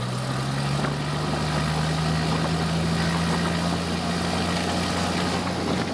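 Cessna 172F's six-cylinder Continental O-300 engine throttled up for the pre-takeoff run-up. Its pitch climbs over the first second or so, then holds steady at run-up RPM.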